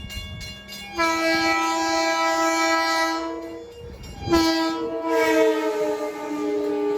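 LIRR M7 electric train's multi-chime horn sounding two long blasts, each about two and a half seconds, the second sliding slightly lower in pitch.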